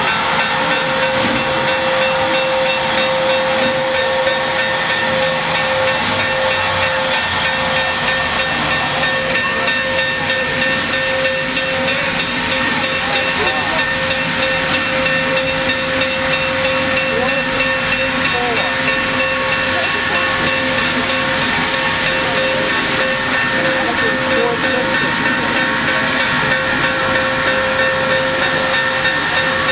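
Steam hissing steadily and loudly from Union Pacific 3985, a 4-6-6-4 Challenger steam locomotive, with a constant tone held under the hiss.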